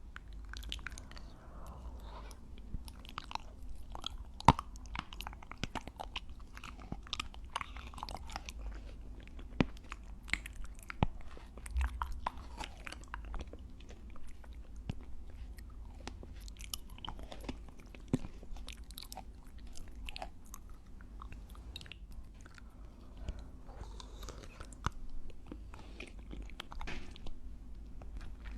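Close-miked chewing and biting: many sharp, irregular clicks and wet mouth sounds, with a few louder snaps, like the one about four and a half seconds in.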